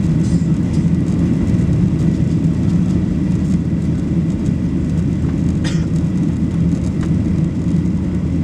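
Steady, loud, low rumble of a Boeing 737-800 airliner's jet engines during its takeoff.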